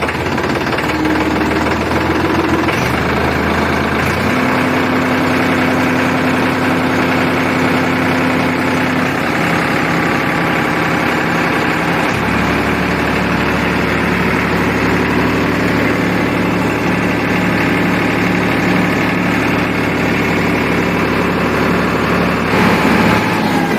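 Tractor engine running steadily, a loud, even drone whose pitch jumps abruptly to a new steady note several times.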